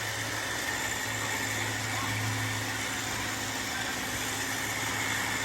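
Robot vacuum running: a steady motor and fan whir with a constant low hum.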